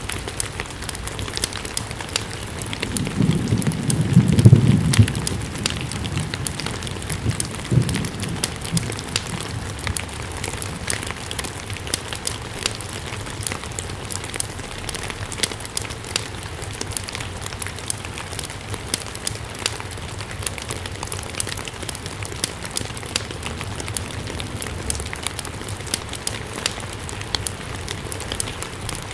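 Steady rain with frequent sharp crackles from a wood fire. A low rumble swells about three to five seconds in, with a shorter one a few seconds later.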